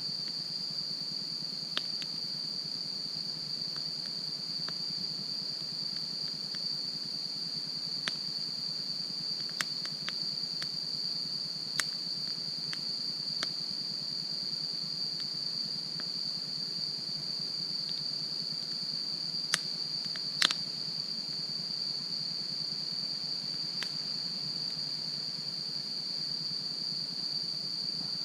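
Wood fire crackling with scattered sharp pops, the loudest pair about two-thirds of the way in, over a steady high-pitched chirring of insects.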